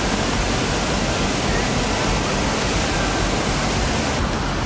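Steady rush of a river waterfall.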